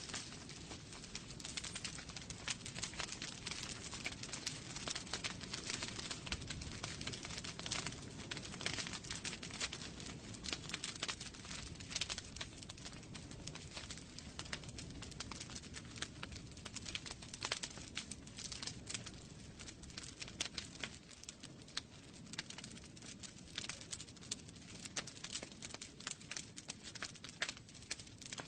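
Wood fire burning in a fireplace, crackling continuously with many small sharp pops over a low rushing of flames.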